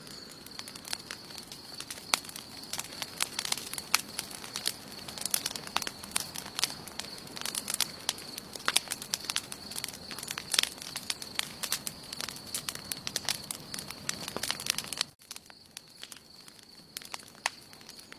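Wood campfire crackling, a dense run of sharp pops and snaps over a steady high thin tone. About fifteen seconds in the sound drops off abruptly and the crackling turns sparser.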